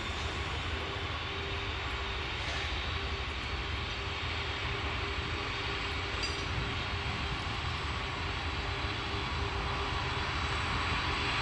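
2TE116 diesel locomotive pulling a freight train away, a steady engine drone with a low rumble and a constant tone running over it.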